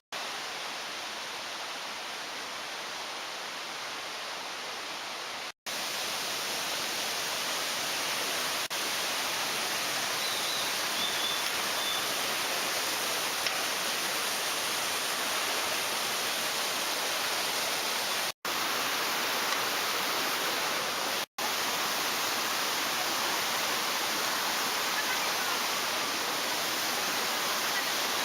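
Rushing water of a mountain valley stream: a steady, even rush of water noise, cut out abruptly for an instant three times.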